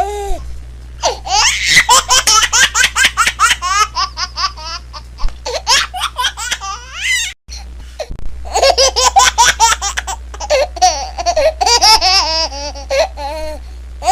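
A baby laughing hard in rapid, high-pitched bursts, broken by a brief cut about seven seconds in before the laughing starts again.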